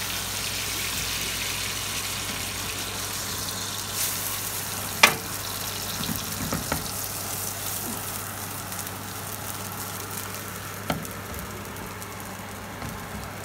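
Rice tikki frying in butter in a nonstick frying pan, a steady sizzle that slowly grows quieter. A few sharp knocks cut through it, the loudest about five seconds in.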